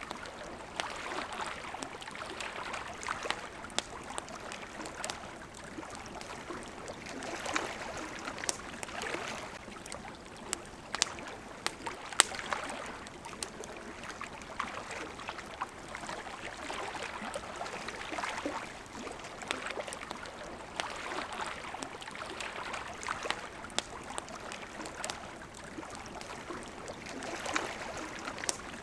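Small waves lapping at the water's edge in repeated swells, with the sharp pops and crackles of a campfire over them.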